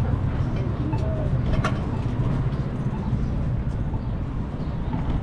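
Steady low rumble of city street noise, with a few faint short higher calls over it.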